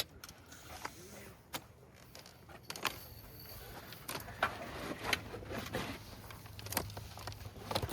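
Scattered clicks and knocks over a rustling noise, with a low steady hum for a couple of seconds past the middle.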